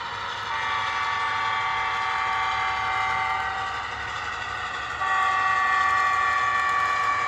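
Two long, steady blasts of a multi-tone train horn, the second louder, from a sound-equipped N scale model locomotive, with the locomotive's running sound underneath.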